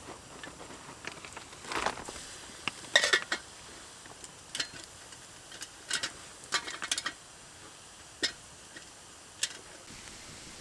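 Metal cookware and utensils clinking and knocking against each other, irregularly, during campfire cooking. The loudest clink, about three seconds in, rings briefly.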